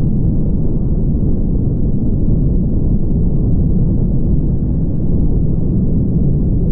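Steady low rumble of a car driving: road and engine noise, even throughout.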